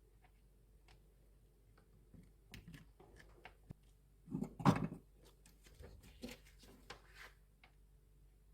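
Light clicks and taps of small parts and tools being handled during a fan motor repair, with a louder knock a little past halfway.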